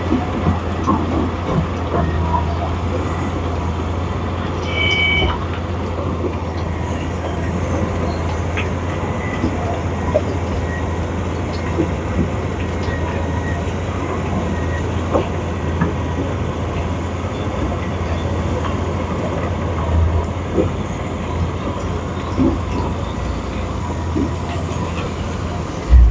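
A heavy engine running steadily, with rattles and small knocks throughout and a brief high double tone about five seconds in.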